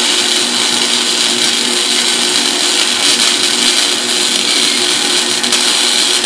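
Wire-feed (MIG) welder running a continuous bead on a steel turbo flange: a steady sizzling hiss and crackle of the arc, with a constant low hum beneath it.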